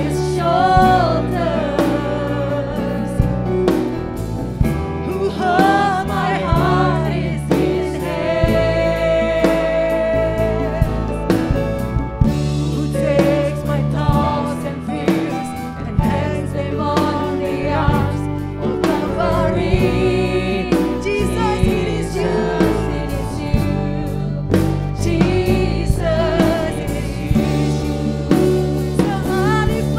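Worship band playing a Christian song, with a sung melody over bass and drums.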